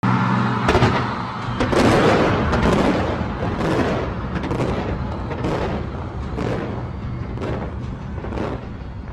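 Fireworks bursting over and over, a rapid run of booms and bangs over a continuous rumble, loudest in the first few seconds and then easing off a little.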